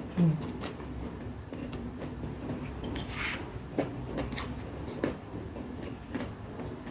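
Close-miked eating of fried fritters: scattered mouth clicks and soft crunches, with a louder crunch about three seconds in. A brief low hum just after the start.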